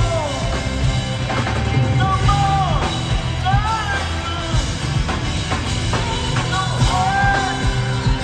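Live rock band playing in an arena: steady drums and heavy bass under gliding, arching sung or melodic lines that recur every second or two.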